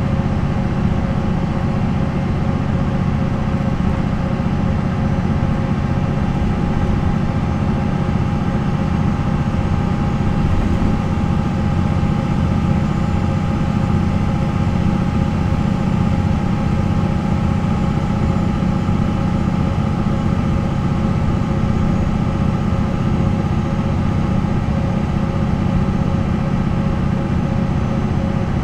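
MAN NL 263 bus's D28 diesel engine running steadily, with a deep, even engine note and a faint steady whine above it; no revving or gear changes are heard.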